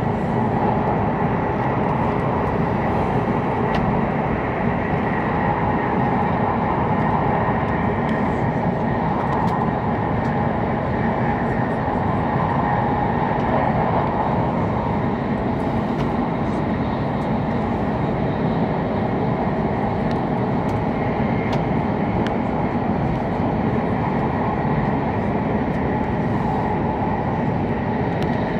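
Steady running noise of an E7-series Hokuriku Shinkansen train, heard from inside the passenger car: an even rumble and hiss with no change in level.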